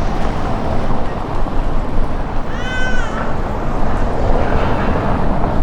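Gusty wind buffeting the microphone, loud throughout. About halfway through, a single short high-pitched animal call rises and falls.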